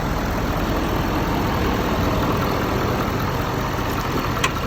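A Ford 6.7 L Power Stroke V8 turbodiesel idling steadily, with one short click about four and a half seconds in.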